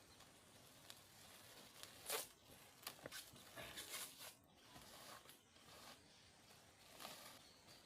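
Faint irregular rustling and crackling, with a few sharper crackles about two seconds in and near the end, over a steady faint hiss.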